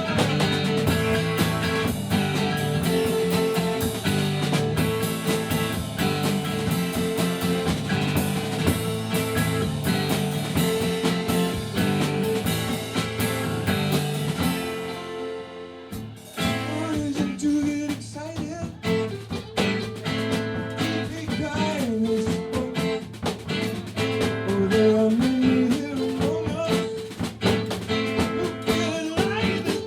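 Live band playing an instrumental passage with guitar and drums. About halfway through the sound fades and briefly drops out, then the playing picks up again.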